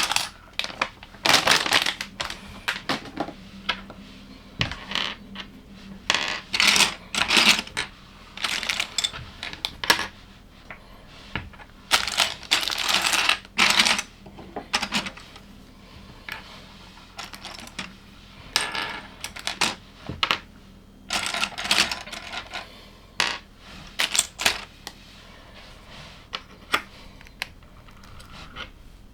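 Loose plastic LEGO pieces clattering and rattling as they are picked through and handled, in repeated irregular bursts that thin out near the end.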